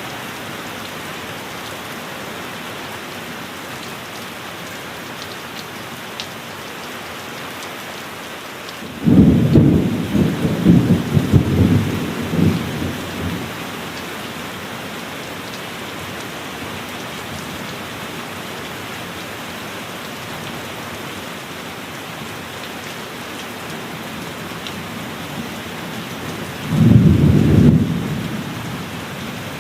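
Steady heavy rain hissing throughout, with two claps of thunder: a long rolling one with several cracks about nine seconds in, and a shorter one near the end.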